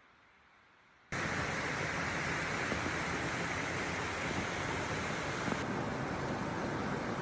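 Stream water running steadily, coming in abruptly about a second in after a faint hush.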